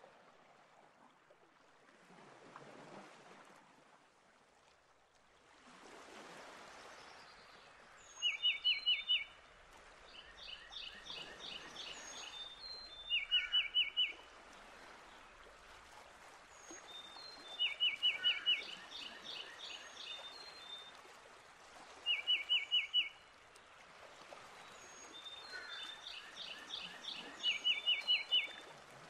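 A songbird repeating a short phrase of five or six quick, sharp notes about every four to five seconds, with softer calls in between, over a wash of running water that swells and fades.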